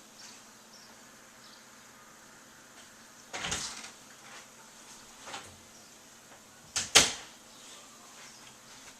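A few sudden knocks or bumps over a steady faint hiss: one about three and a half seconds in, a small one near five seconds, and the loudest, a quick double knock, about seven seconds in.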